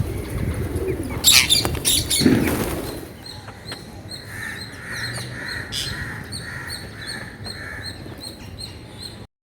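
A flock of parakeets with wings flapping loudly for the first few seconds, then a run of calls repeating about twice a second. The sound cuts off abruptly near the end.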